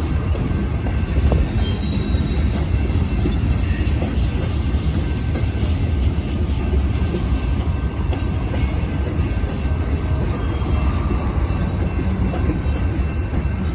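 Railcars of a train backing up, rolling slowly along the track with a steady low rumble of wheels on rail and a faint high wheel squeal.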